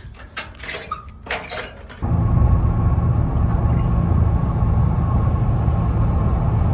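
A few scattered clicks and knocks, then, about two seconds in, the sudden loud, steady low rumble of a Nissan Frontier pickup driving, its engine and road noise carrying a faint steady whine.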